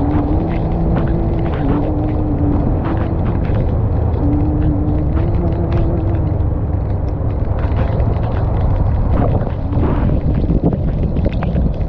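Motorcycle engine running while riding, with a steady low rumble and an engine note that steps up and down with the throttle. Wind buffets the action-camera microphone.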